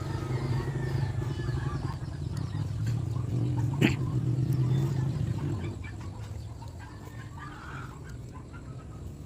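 An engine runs steadily, then fades out about six seconds in. A single sharp click comes near the middle, and small birds chirp faintly.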